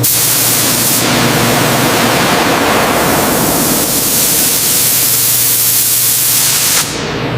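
A loud, steady hissing rush of noise with a low hum beneath it, which drops away sharply near the end.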